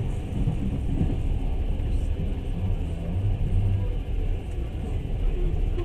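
Steady low rumble of a passenger train carriage rolling along the track, heard from inside the carriage.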